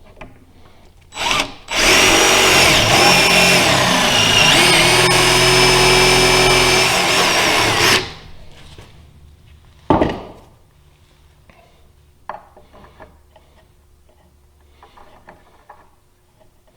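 Power drill boring a pilot hole into wood so the wood will not split: a short blip, then about six seconds of steady running before it stops. A single knock follows about two seconds later.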